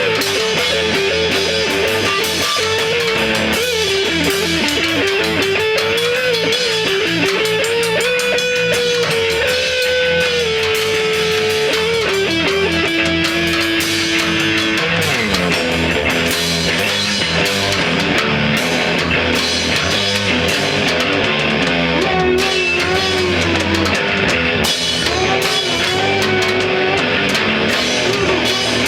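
Rock band playing a song: a lead guitar melody with bends and held notes over a drum kit.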